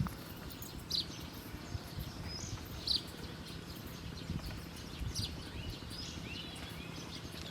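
Wild birds giving short, scattered chirps, a handful over a few seconds, some with brief pitch glides, over a steady low outdoor rumble.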